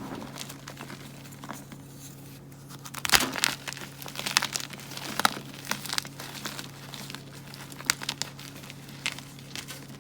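Gym chalk blocks being crushed and crumbled by hand, giving a run of crisp crunching and crackling. It begins about three seconds in with the loudest crunch, then goes on in irregular crackles, over a steady low hum.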